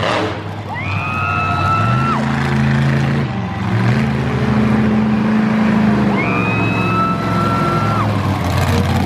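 A monster truck's engine running with its pitch stepping up and down. Over it come two long high tones, about five seconds apart, each gliding up quickly and then holding steady for about a second and a half.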